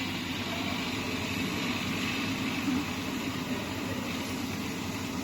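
YCD-38E ceiling dehumidifier running: its fan's steady airflow noise over a low hum.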